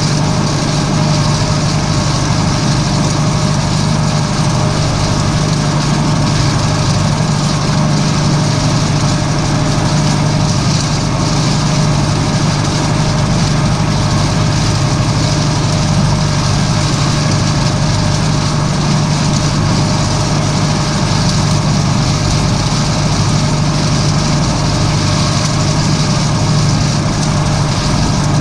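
Tractor engine running steadily at a constant speed, a loud even hum with no change in pitch.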